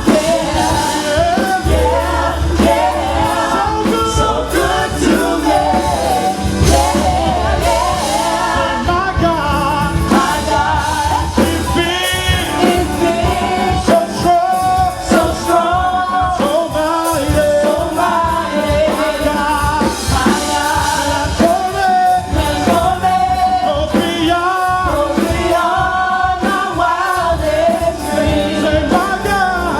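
Worship song sung over a band: voices carry the melody over a steady bass line and drums.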